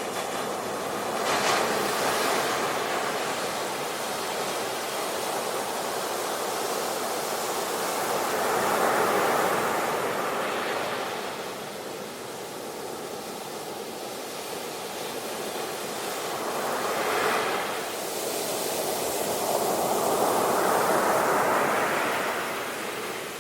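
Ocean waves breaking and washing up on a shore, swelling and ebbing every several seconds in a steady surf.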